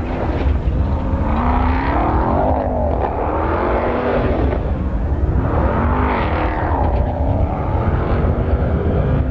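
Motor vehicle engines running with a steady low rumble. Twice, about two seconds in and again about six seconds in, an engine note swells and bends in pitch as a vehicle goes by.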